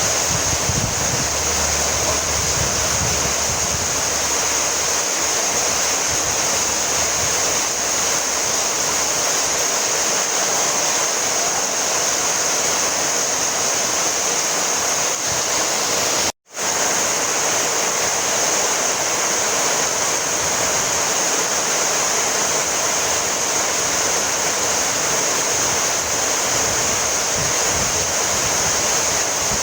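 Heavy rain falling steadily, a dense even hiss, with a brief cut to silence about halfway through.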